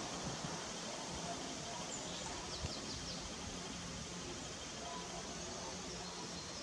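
Outdoor ambience: a steady background hiss with a few faint, short high chirps about two to three seconds in.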